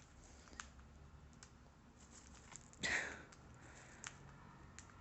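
Faint, sparse small clicks of a cockatiel's beak cracking millet seeds, with one brief louder sound about three seconds in.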